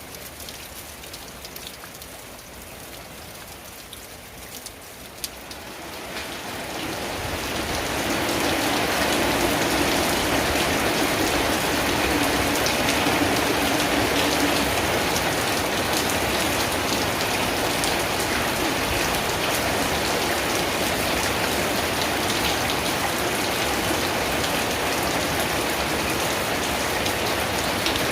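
Rain falling on a tin roof: light, with scattered separate drops at first, then swelling about six seconds in to a steady heavy downpour.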